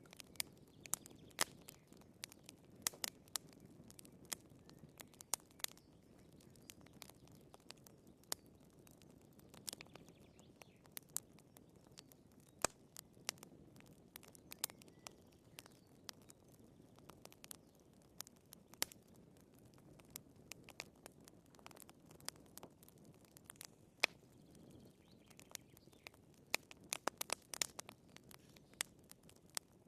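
Wood fire in a fireplace crackling: irregular sharp pops and snaps from the burning logs over a soft low hiss of the flames, with a quick cluster of pops near the end.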